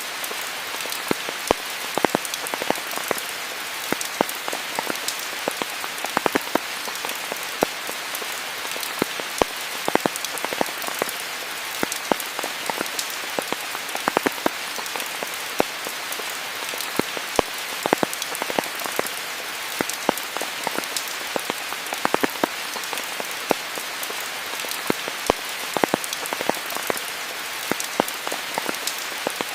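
Steady rain with many individual drops striking close by, sharp drip ticks scattered all through the even hiss of the rainfall.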